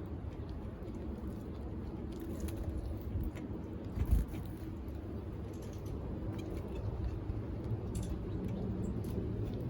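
Steady low outdoor rumble with scattered light taps and clicks, and one louder thump about four seconds in.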